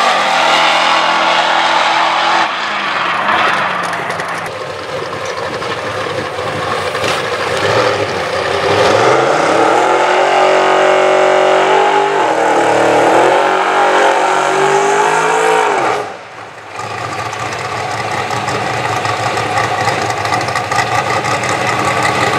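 Drag-racing car engines. A car pulls away down the strip under hard acceleration, then another engine is revved up and down several times and settles to a steady run near idle.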